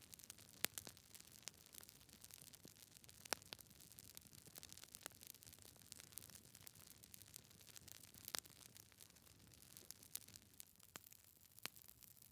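Wood logs burning in a fireplace, crackling with scattered sharp pops at irregular intervals, a few of them louder, over a faint hiss.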